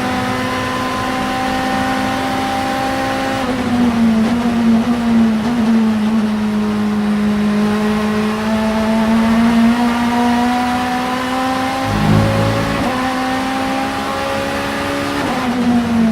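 Vauxhall Vectra Super Touring race car's 2.0-litre four-cylinder engine running hard at high revs under load. Its pitch climbs slowly, dropping sharply at upshifts about three and a half seconds in and again near the end. There is a brief low rumble about twelve seconds in.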